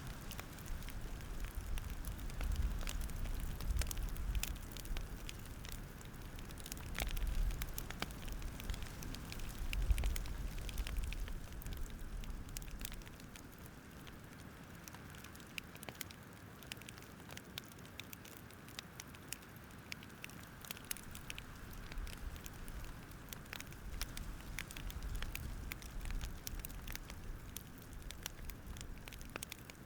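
Wood fire crackling, with sharp pops scattered irregularly throughout and a low rumble that swells and fades several times.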